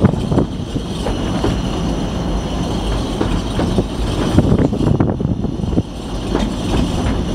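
Narrow-gauge heritage train running along the line, heard from aboard a carriage: a steady rumble of wheels on track with scattered sharp knocks and clatters.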